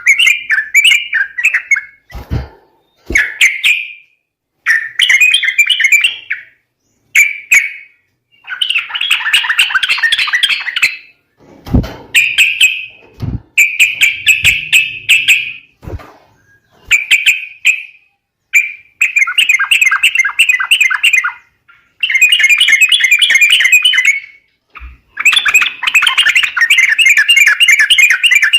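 Yellow-vented bulbul (trucuk) calling in repeated bursts of fast, bubbly chattering, each one to two seconds long with short gaps between them. A few brief low thumps fall between phrases.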